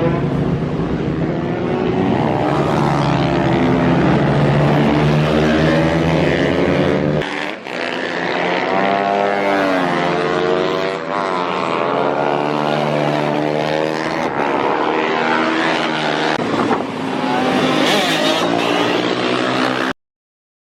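A 140cc pit bike's single-cylinder four-stroke engine revving hard on track, its pitch climbing and falling again and again through the gears, with a short lift off the throttle about seven seconds in. The sound cuts off suddenly near the end.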